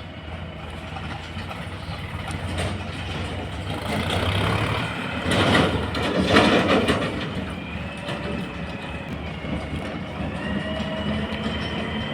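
Heavy diesel engine of earth-moving machinery running steadily, with a loud rushing, clattering surge about halfway through and a thin whine near the end.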